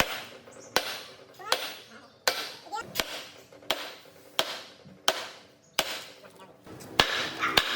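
Hammer blows on metal in a steady rhythm, about ten strikes roughly 0.7 s apart, each leaving a brief ring.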